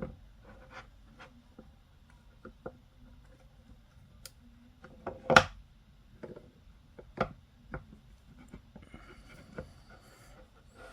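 Hands handling the packaging and parts of boxed polystone statues during unboxing: light rubbing and scraping with scattered small taps and clicks, and one sharper knock about halfway through.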